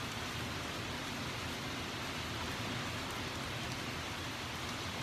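Steady rush of rain falling during a thunderstorm, an even hiss with no distinct drops or thunderclaps.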